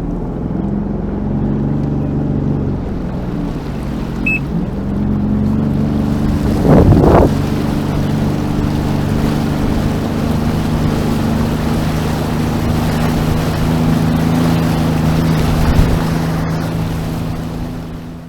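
Sea-Doo Fish Pro personal watercraft engine running at a steady cruise, with wind and water rushing. There is a brief loud thump about seven seconds in.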